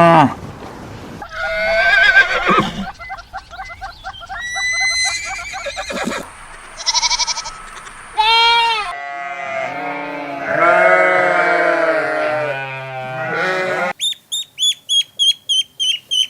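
Goats bleating, a series of separate calls, some wavering, several overlapping between about 9 and 14 seconds in. Near the end the sound changes suddenly to a fast run of short, high-pitched calls.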